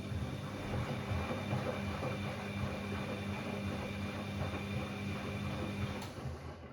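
Bosch Classixx 6 washing machine's drain pump running, a steady mains hum over rushing water as the cooldown water is pumped out before the spin; it cuts off abruptly about six seconds in.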